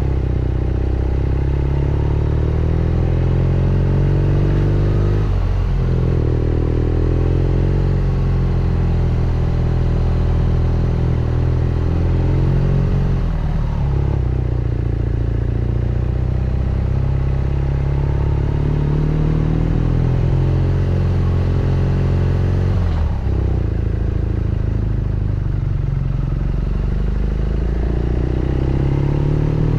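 BMW R nineT Scrambler's 1170 cc boxer twin under way on a steep, winding climb. The exhaust note rises steadily with the revs, then falls sharply about three times as the rider shifts or rolls off the throttle.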